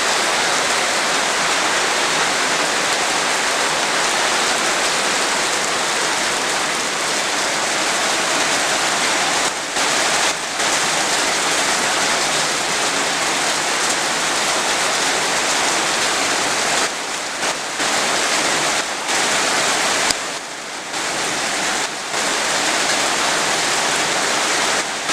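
Heavy rain pouring down with a dense, steady hiss, briefly dipping in loudness a few times.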